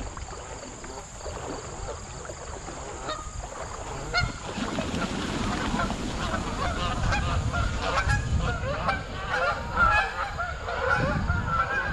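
Geese honking, many overlapping calls from a flock that grow busier from about a third of the way in.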